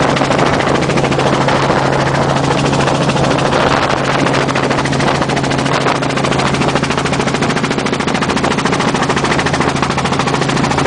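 Helicopter running close by: a loud, steady, fast rotor chop over a constant low engine tone.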